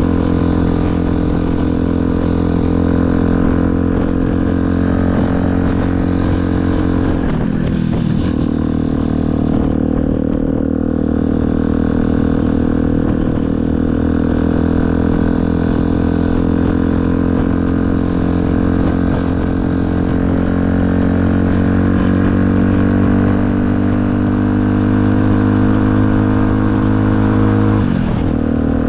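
Motorcycle engine running under way, its note climbing slowly as the bike gathers speed, with a brief break in the sound for a gear change about seven seconds in and another near the end.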